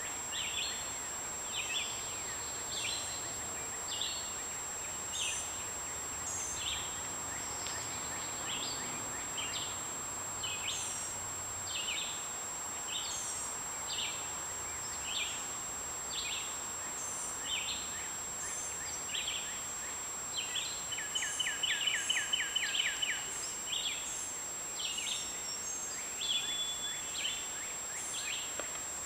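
Songbirds chirping repeatedly, about one or two short high calls a second, with a rapid trill lasting about two seconds roughly three quarters of the way through. A steady high-pitched tone runs underneath.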